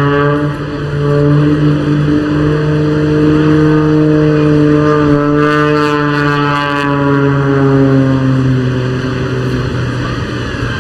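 The Pitts Special's six-cylinder Lycoming O-540 piston engine and propeller running hard through an aerobatic manoeuvre: a loud, steady drone whose pitch drifts up and down, brightest about halfway through.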